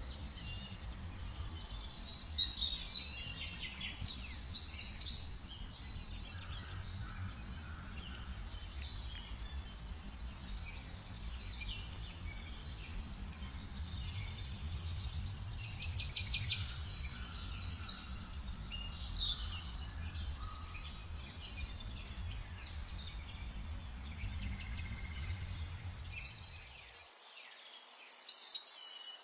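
Several small songbirds chirping and singing in quick trills and twitters, busiest in the first seven seconds and again around the middle, over a low background rumble that drops out suddenly near the end.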